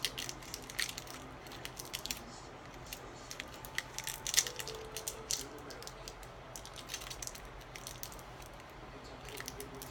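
Plastic packaging being torn and pulled open by hand: scattered crackles and clicks, the loudest about four and a half seconds in.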